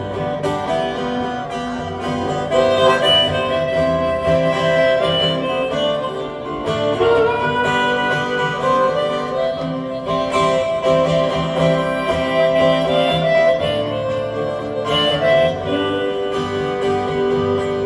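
Live harmonica solo over acoustic guitar strumming in an instrumental break of a folk song.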